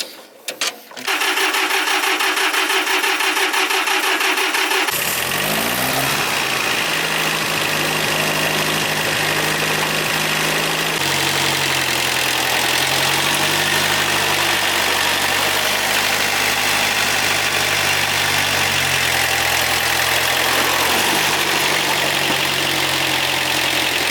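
Engine of a Mitsubishi farm machine running on a test drive after repair. About five seconds in its note rises, then it runs steadily, stepping up and down in speed a few times.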